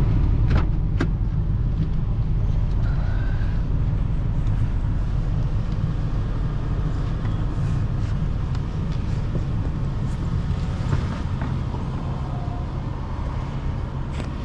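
Nissan Xterra's engine idling steadily with an even low rumble, cutting in abruptly at full level.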